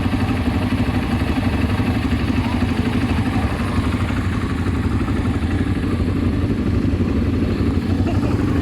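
ATV engine running steadily at low revs.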